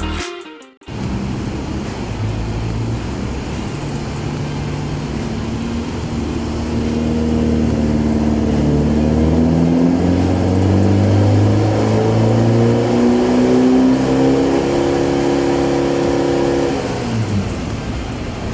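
Chevrolet Colorado pickup with a Borla full exhaust accelerating: the exhaust note climbs slowly and steadily in pitch for several seconds, then drops off a little before the end as the throttle is lifted.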